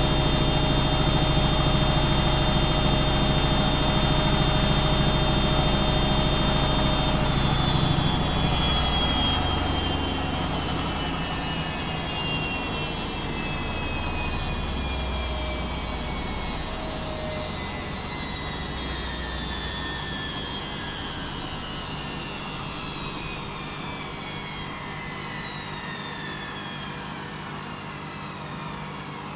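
Washing machine spinning its drum at high speed with a high whine, then about seven seconds in the motor lets go and the drum winds down, the whine falling steadily in pitch and the sound fading.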